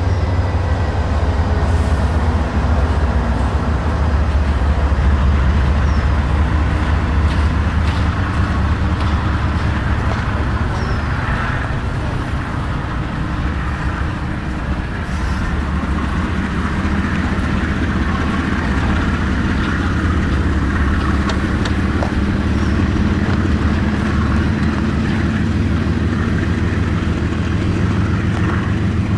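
A train rolling past at close range: a steady, heavy rumble of wheels on rail, with a few scattered clicks.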